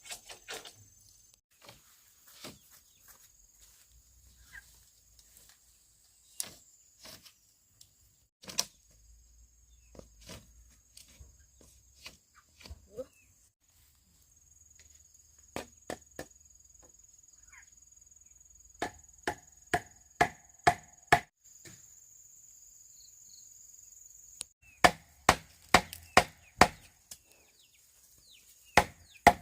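Blows chopping bamboo: scattered single strikes, then two quick runs of about six sharp, slightly ringing strikes each, the second run the loudest. A steady high insect drone runs behind.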